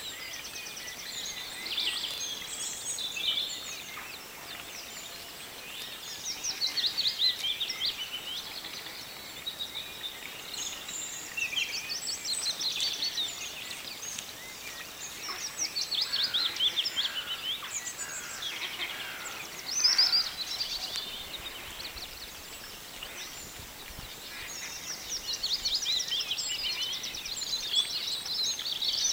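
Several songbirds singing, phrase after phrase overlapping, some in quick trills.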